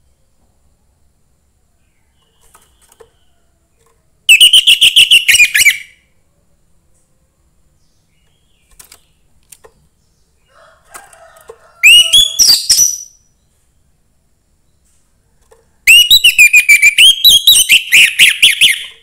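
Young wild orange-headed thrush (anis merah) singing three loud phrases of rapid, stuttering whistled notes. The phrases come about four seconds in, about twelve seconds in, and a longer one near the end.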